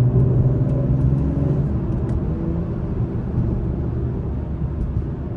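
Steady engine and tyre noise inside the cabin of a 2021 Acura TLX Type S cruising, its turbocharged 3.0-litre V6 giving a low hum that is strongest in the first second and a half.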